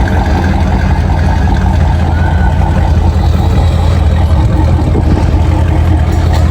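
A car engine running loudly and steadily, with its exhaust giving a deep rumble.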